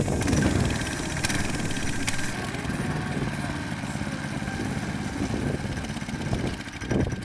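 Small single-cylinder petrol engine of a wake winch, about 6.5 horsepower, running steadily under load as it pulls a rider on a skimboard.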